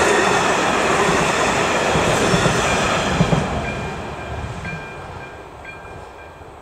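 Diesel railcar passing over the level crossing, its engine and wheels loud at first, with a couple of sharp wheel clicks, then fading from about halfway through as it moves away. The crossing's electronic warning bell keeps ringing and comes through more clearly as the train noise dies down.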